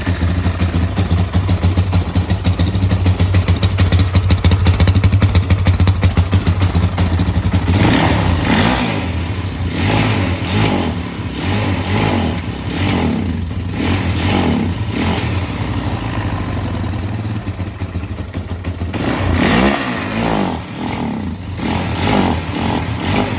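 2006 Kawasaki KFX 400 ATV's single-cylinder four-stroke engine running just after a valve adjustment: a steady fast idle at first, then the throttle is blipped several times so the revs climb and drop, settling between, with another run of blips near the end.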